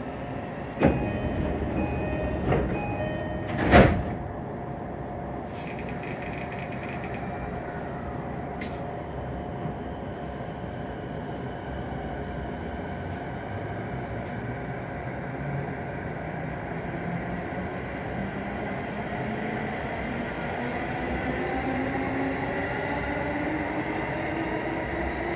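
Inside an electric commuter train car: a short chime and knocks as the sliding doors close, ending with a thud about four seconds in. Then the train pulls away, its motor whine rising steadily in pitch as it accelerates.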